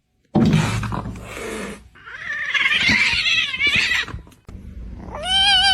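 A cat yowling in drawn-out, wavering calls; the last call, starting near the end, is held with an even wobble in pitch.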